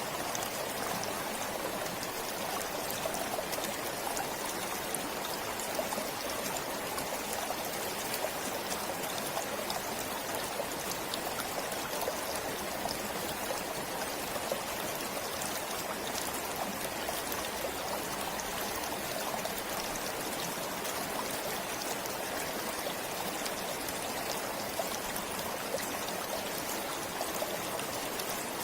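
A forest stream flowing steadily: an even rush of running water with many fine splashes, unchanging throughout.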